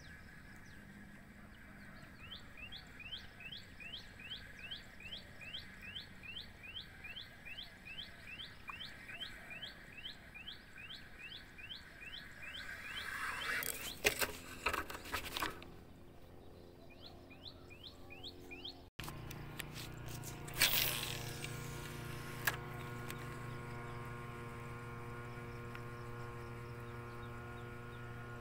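A bird repeats short falling chirps, about two a second, over faint outdoor ambience. A rustle of handling noise follows about two-thirds of the way into the chirping. After an abrupt cut, a steady low hum takes over with a couple of brief knocks.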